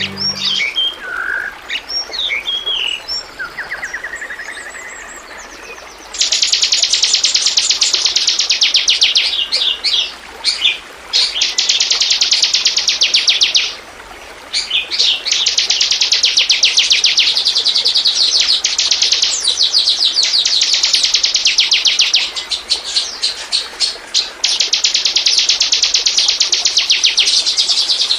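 Bar-winged prinia (ciblek) singing: a few scattered chirps at first, then from about six seconds in long strings of very rapid, high-pitched trilling broken by short pauses.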